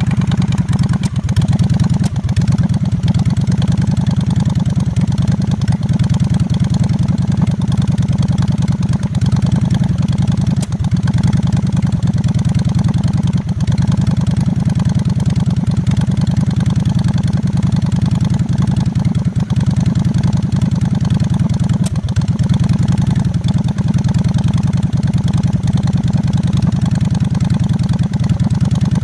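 Honda Shadow 750's V-twin engine idling steadily with no muffler or baffles, on pod filters and re-jetted carburettors. Under the exhaust there is a hiss from one carburettor side or the other, with a puff of air felt there, which pulls the revs down and sometimes stalls the engine; the owner suspects an air leak.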